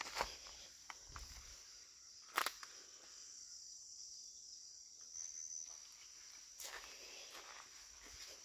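A faint, steady high-pitched insect chorus, with a few separate footsteps or twig snaps.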